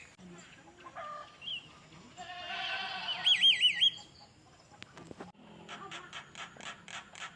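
A songbird singing a varied song: scattered whistles and chatter, a louder warble about two seconds in that ends in a quickly wavering whistle, then a fast run of evenly spaced notes near the end.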